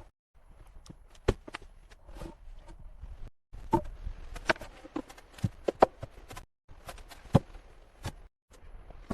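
Irregular sharp knocks and taps over a faint hiss, in short stretches broken by brief dead-silent cuts.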